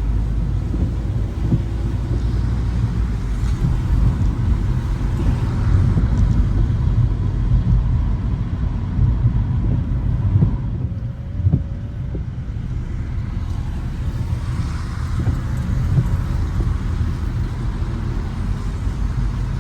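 Car driving on wet streets: a steady low rumble of engine and road noise with a hiss from the tyres, easing off briefly about halfway through.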